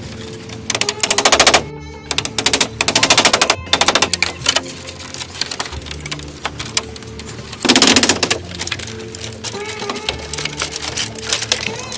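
Background music with several bursts of very rapid tapping, like a drum roll of clicks; the loudest burst comes about eight seconds in.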